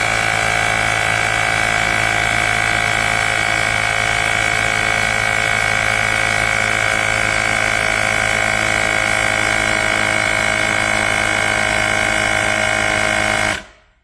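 Cordless portable tire inflator's electric compressor running steadily at a constant pitch, pumping air, then cutting off abruptly near the end.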